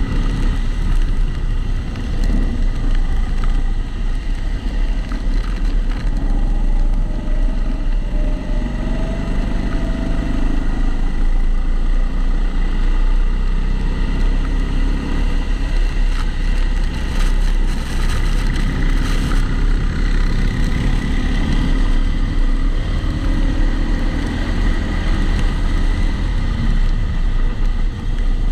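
Kombikart Eco rental kart running at speed, its pitch rising and falling as it accelerates and slows, heard through a camera in a waterproof housing. Over it runs a steady rumble that the driver blames on the GoPro housing.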